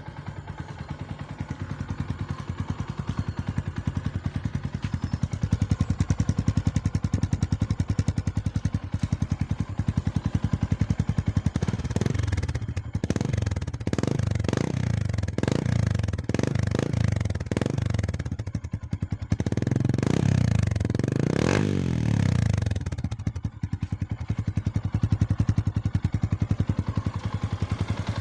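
Yamaha Sniper 150's single-cylinder engine running through an aftermarket Spyker exhaust pipe, idling steadily, then revved in a run of about eight short throttle blips about halfway through, with one longer, higher rev near the end of the run before it settles back to idle.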